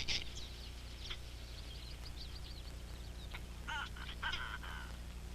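Birds calling: short, high chirps and chattering calls, with one cluster at the start and another about four seconds in, over a low steady hum.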